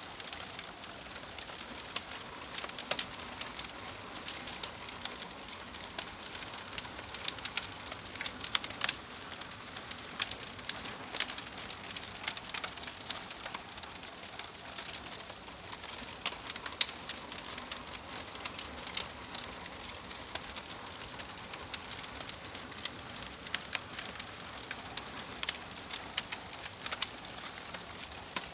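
Crackling fire: a steady hiss with frequent, irregular sharp pops and snaps.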